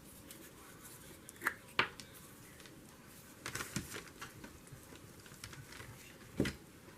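Craft paper and supplies being handled on a tabletop: a few light taps and rustles, with a louder knock near the end.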